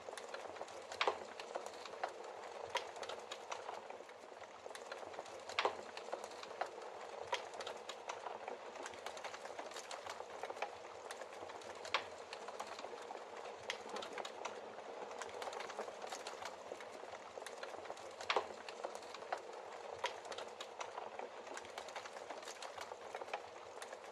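Wood logs burning in a fireplace: a steady hiss of flames with frequent sharp crackles and pops, a few louder snaps scattered through.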